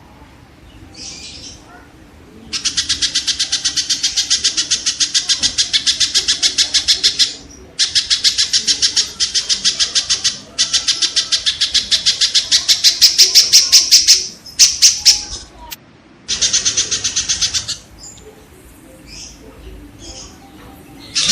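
Kingfisher (tengkek) calling in long bouts of rapidly repeated, rough notes. Four or five bouts of a few seconds each, with short breaks, start a few seconds in and stop about three-quarters through. Quieter bird calls come in the gaps.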